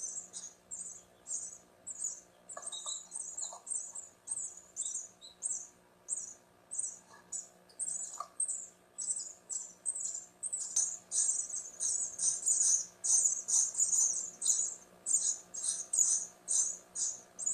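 House sparrow nestlings begging: a steady run of short, high, thin chirps, two or three a second, getting louder and busier about halfway through.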